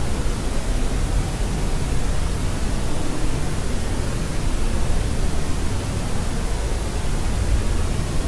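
Steady white noise, an even hiss weighted toward the low end like pink noise, with no changes or breaks.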